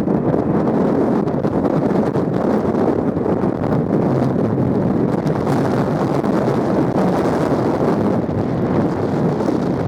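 Strong wind buffeting the microphone over the steady noise of a Boeing 737's jet engines during a go-around.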